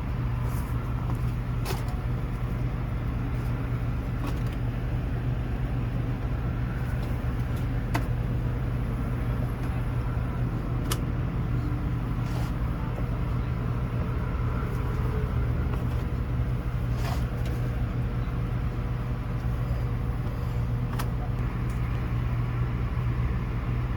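Steady low mechanical hum of a running engine or motor, with a few light clicks and knocks scattered through it.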